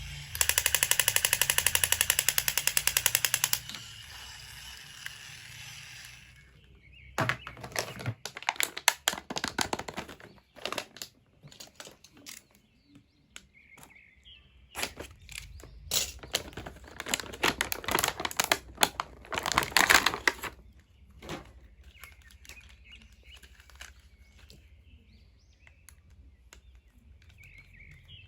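Toy packaging being handled: a loud, rapid, even rattle for about three seconds, then a stretch of irregular clicks and crinkles of plastic and cardboard.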